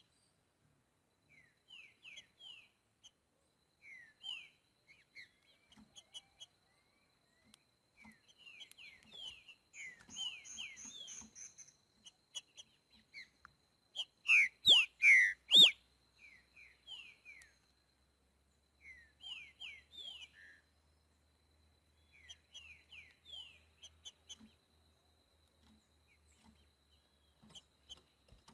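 Green-winged saltator (trinca-ferro) of the boiadeiro song type singing: phrases of short slurred whistled notes every second or two, with a much louder burst of about four notes halfway through.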